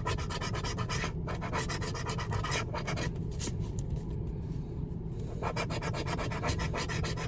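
A lottery scratch-off ticket being scratched in quick repeated strokes, with a pause of about two seconds midway.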